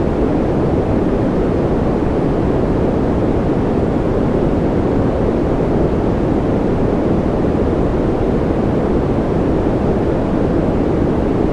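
Continuous white noise for infant sleep: a steady, deep, even shushing with most of its strength in the low and middle range and little treble, unchanging throughout.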